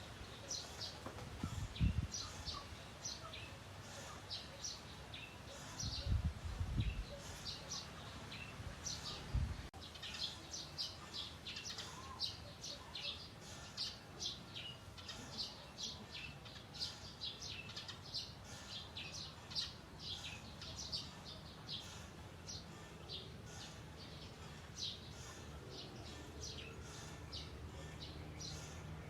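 Bird chirping over and over in short, high chirps, about two a second. A few brief low rumbles come in the first ten seconds.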